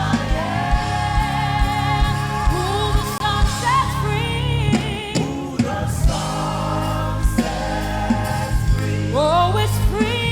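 Gospel worship song: singers with vibrato over a live band, with bass and a steady kick-drum beat.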